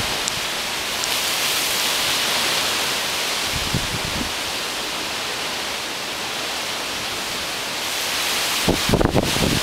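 Hurricane-force wind blowing as a steady loud hiss, with gusts buffeting the microphone briefly about four seconds in and again near the end.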